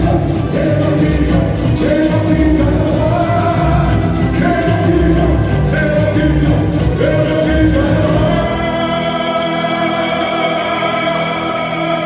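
Amplified boi-bumbá toada played live at a sound check: singing over heavy, pulsing low percussion. About 9 seconds in, the low drumming drops out and sustained sung and instrumental tones carry on.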